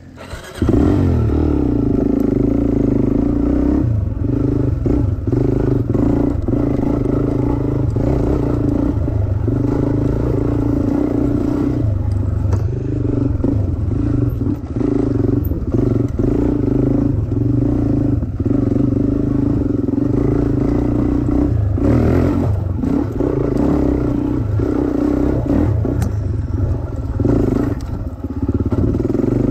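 Dirt bike engine running under throttle while riding a trail, easing off briefly several times, with some rattling.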